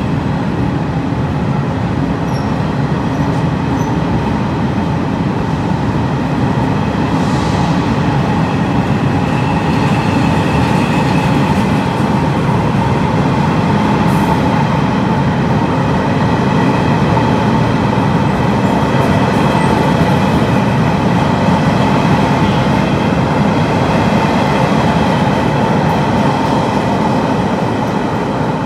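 Chu-Kuang Express passenger carriages rolling past as the train pulls out of an underground station: a steady, loud rumble of wheels on rail with a steady high ringing tone above it. The noise eases slightly near the end as the last car passes.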